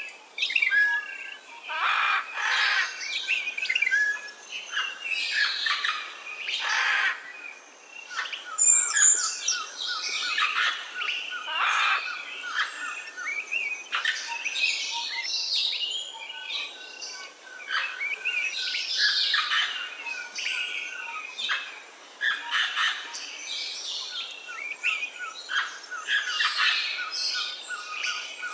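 Wild birds chirping and singing, with many short calls and trills overlapping in a busy chorus.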